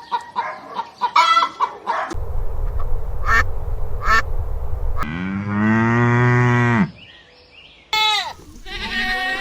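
Farm animals calling in turn: rapid quacking from ducks, then a long, low moo from a cow about five seconds in, and a higher, falling animal call near the end.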